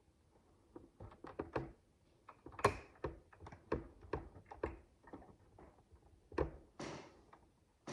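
Micro bricks (miniature building blocks) clicking and tapping as they are handled and pressed together: a run of small irregular clicks, the loudest about two and a half seconds in.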